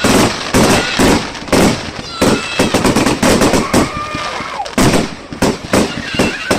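Fireworks going off: many sharp bangs and cracks in quick, irregular succession, with hardly a gap between them.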